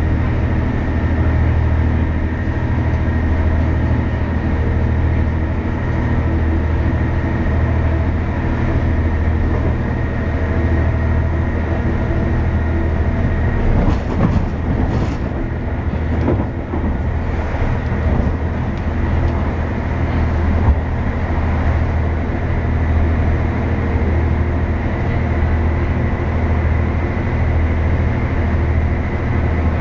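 A passenger train running, heard from inside the carriage: a steady low rumble, with a short spell of sharp clicks and rattling about halfway through.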